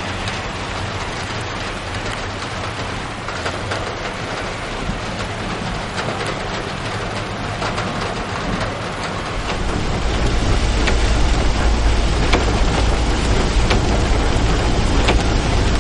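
Heavy rain pouring down, a steady hiss with sharp drop impacts scattered through it. About ten seconds in, a deep rumble joins and the whole sound grows louder.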